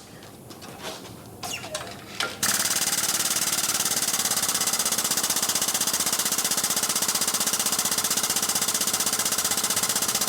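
Rapid, steady mechanical hammering, like a pneumatic tool, which cuts in abruptly about two and a half seconds in after a short quiet stretch with a few light clicks.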